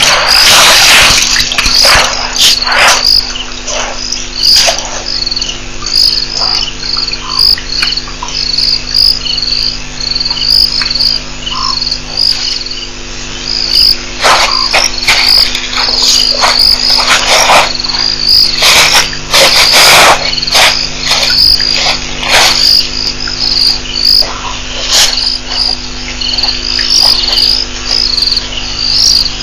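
A cricket chirping steadily, a regular run of short high chirps about two a second, over a steady electrical hum. Irregular knocks and rustles come and go, heaviest around the middle and two-thirds of the way in.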